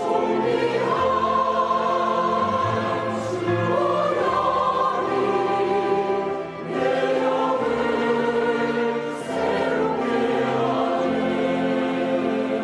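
Church choir singing a hymn in held chords, with a brief break between phrases about six and a half seconds in.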